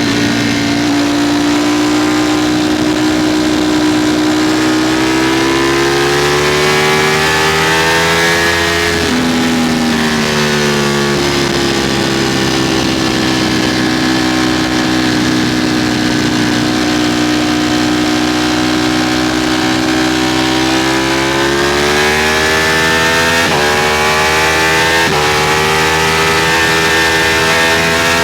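Ducati Streetfighter V4 motorcycle's V4 engine pulling hard at speed. The revs climb, drop sharply about nine seconds in, hold steady for a long stretch, then climb again with two short dips near the end.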